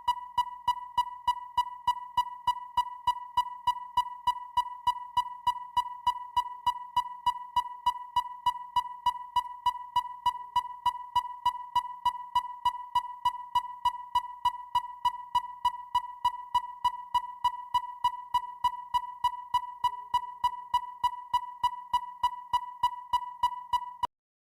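Depth finder sonar ping sound effect: a steady train of short electronic pings pitched near 1 kHz, about three a second, that cuts off abruptly near the end.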